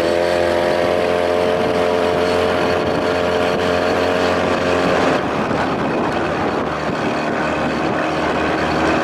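Two-stroke outboard motor, a 1993 Evinrude 25 built up to 35 hp, running steadily under way at an even pitch; about five seconds in, the steady note breaks up into a rougher, noisier sound.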